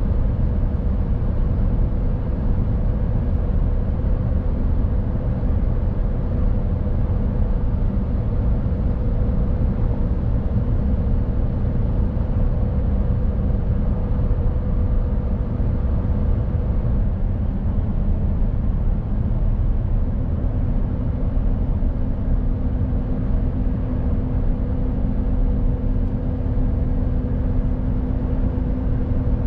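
Mercedes-Benz Actros truck driving: a steady low diesel and road rumble with a constant whine over it, and a second, lower hum joining about two-thirds of the way through.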